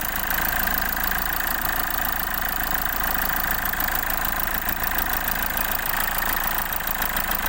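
Hyundai Accent CRDi common-rail diesel engine idling steadily, running again after its CP1 high-pressure fuel pump was fixed.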